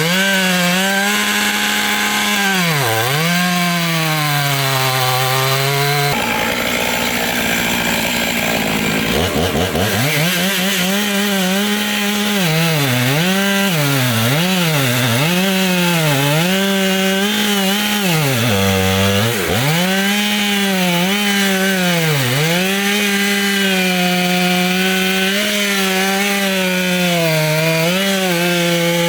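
Gas chainsaw cutting firewood, its engine note sagging again and again as the chain bites into the wood and climbing back between cuts. The engine note breaks off for a few seconds around six seconds in, then revs back up.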